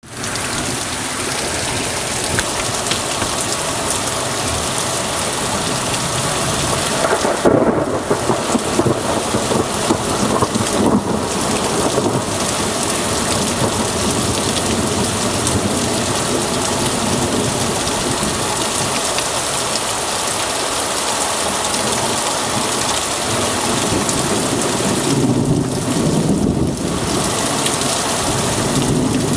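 Heavy thunderstorm downpour: dense, steady rain hissing on surfaces, with thunder rumbling in twice, once about a quarter of the way in and again near the end.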